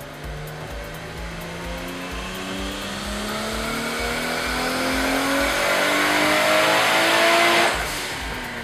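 Swapped RB25 inline-six in a 1991 Nissan 300ZX making a dyno pull: the revs climb steadily and get louder for about seven seconds, then the throttle is lifted and the sound drops off sharply near the end. Background music with a steady beat plays underneath.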